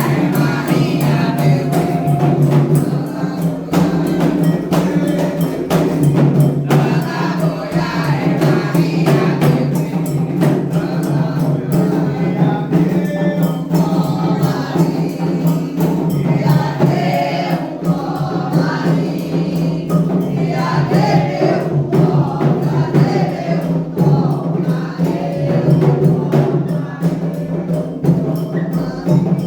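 Candomblé ritual music: atabaque hand drums beating a dense, steady rhythm with a bright struck percussion part, under a group singing a chant for the orixá Xangô/Ayrá.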